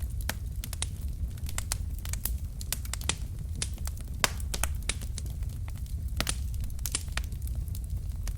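Wood fire in a fireplace: burning logs crackling and snapping in irregular pops over a steady low rumble of flame, with a louder snap about four seconds in.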